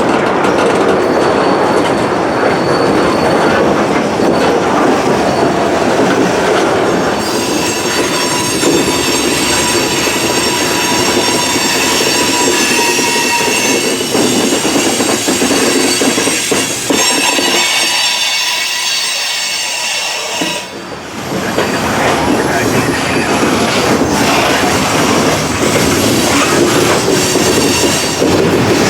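Freight train cars rolling past, with the grind of wheels on rail and thin, high wheel squeal through the middle stretch. The low rumble drops out briefly about two-thirds of the way through, then the rolling noise picks up again.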